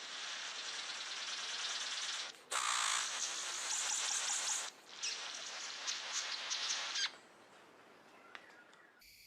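Birds calling over a steady hiss, in short sections that cut off abruptly twice; the sound drops away to faint background about seven seconds in.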